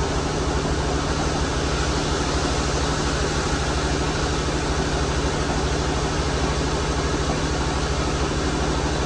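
Sawmill machinery running steadily: a constant low drone under an even hiss, with no change in pitch or level.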